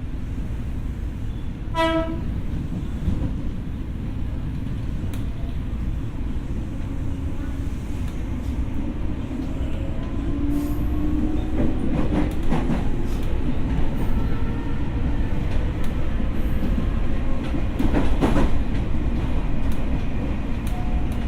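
Onboard running sound of a Tokyo Metro 6000 series electric train: a steady low rumble of wheels on track, with a short horn blast about two seconds in. Later a faint motor whine rises in pitch as the rumble grows louder, with a few knocks from the rails.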